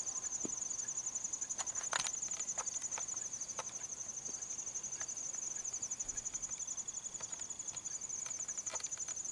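Insects, likely crickets, chirring in a steady high-pitched trill of rapid even pulses, with a few faint brief clicks scattered through it.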